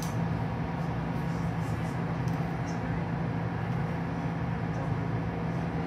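Electric train running along the track, heard from inside the carriage: a steady rumble of wheels on rails with a low hum and a few faint high ticks.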